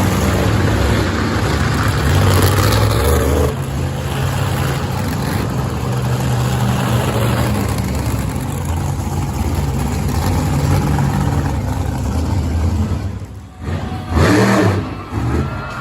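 Monster truck engine running loud and revving, dropping off briefly near the end before two sharp surges of throttle.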